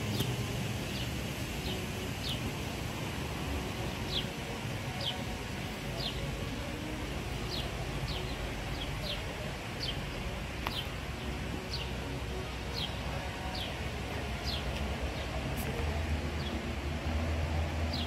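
A small bird calling over and over with a short, high chirp that slides downward, roughly once a second, over a steady outdoor background.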